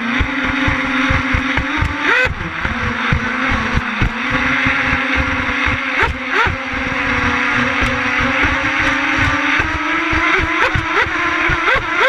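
Twin brushless electric motors of an RC catamaran boat running at speed: a steady whine that climbs slowly in pitch, broken by short upward chirps where the motors briefly rev up, most often near the end. Irregular low thumps run underneath.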